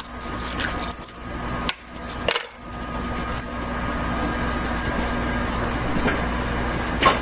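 Light clicks and knocks of items being handled on a kitchen counter, with a cluster in the first few seconds and one more sharp click near the end, over a steady low hum.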